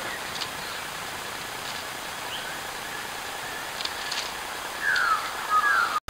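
Bowerbirds calling: a few faint short chirps and clicks, then two louder calls near the end, the first sliding downward in pitch, over a steady hiss.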